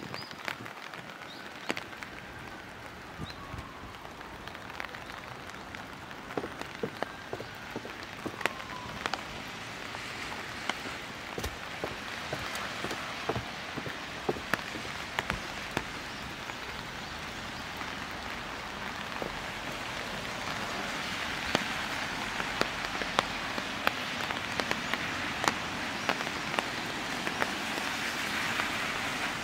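Steady rain: an even hiss with frequent sharp drip ticks, slowly growing louder.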